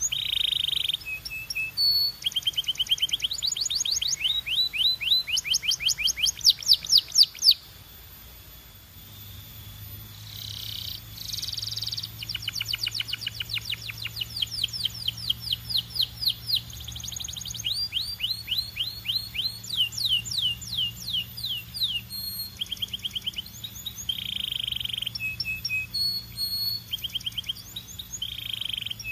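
Canary singing: fast trills of rapidly repeated, falling high whistled notes, changing from one trill to the next, with a break of about a second and a half about seven seconds in.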